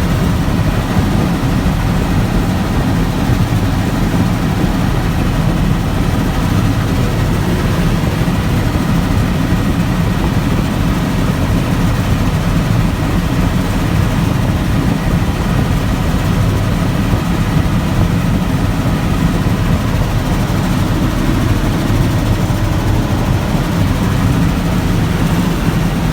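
Bell 206L LongRanger helicopter in flight, heard from aboard: a steady, loud low drone of turbine and rotor with a faint high whine over it, unchanging throughout.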